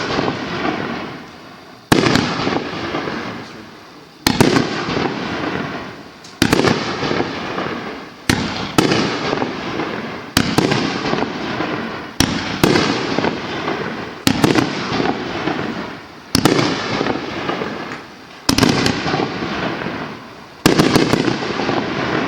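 A 2-inch white strobe fireworks cake firing its shells one after another, about one every two seconds. Each shot is a sharp bang followed by a fading crackle from the white strobe stars.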